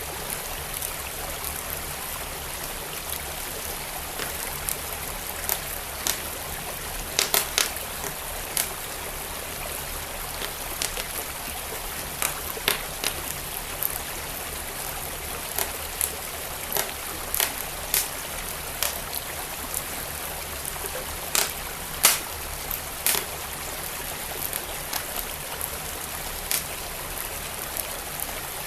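Wood fire crackling, with sharp pops at irregular intervals, over the steady rush of a flowing stream.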